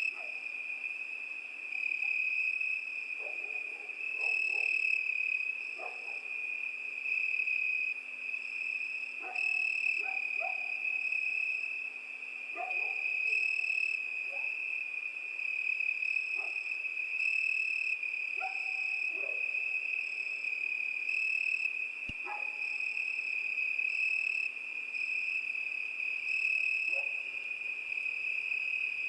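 Crickets chirping in a continuous high trill that swells and fades every second or two, with scattered brief lower calls and clicks from other night creatures.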